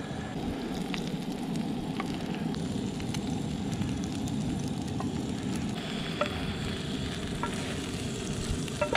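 Eggs, meat and potatoes sizzling in a skillet on a propane camp stove, with a few light clicks of a spatula against the pan as the food is scooped out.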